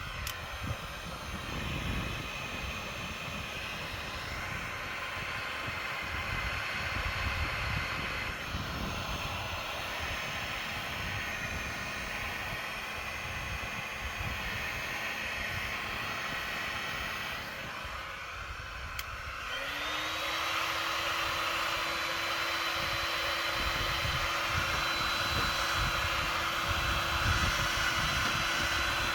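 Heat gun blowing hot air with a steady hiss over irregular low rumbling. About two-thirds of the way through, the sound drops out briefly. It then comes back, its motor whine rising and settling to a steady pitch.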